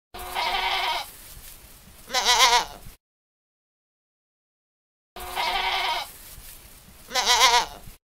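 Lambs bleating: a steady bleat, then a louder, quavering one. After about two seconds of dead silence the same pair comes again.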